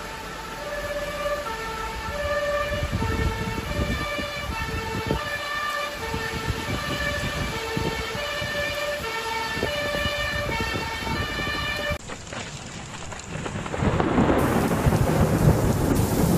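A two-tone emergency-vehicle siren alternating between two pitches over heavy rain and rumbling storm noise. The siren cuts off about 12 seconds in, and a louder downpour of rain takes over.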